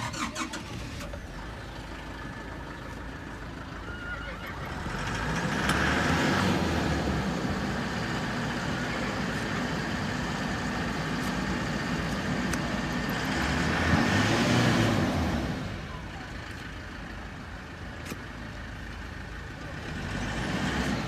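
A motor vehicle's engine running nearby, swelling louder twice: about five seconds in and again around fourteen seconds.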